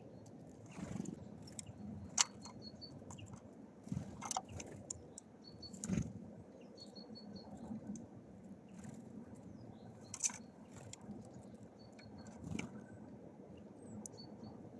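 Small songbirds at a seed feeder: irregular sharp taps and scrabbling from birds pecking and landing, with brief high chirps in short runs of three or four notes.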